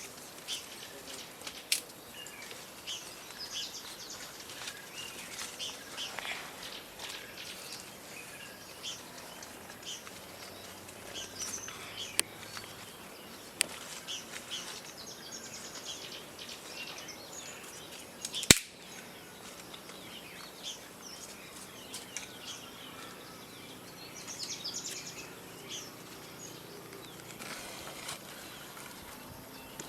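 Birds chirping, many short scattered calls, with a few sharp clicks or knocks, the loudest about two-thirds of the way through.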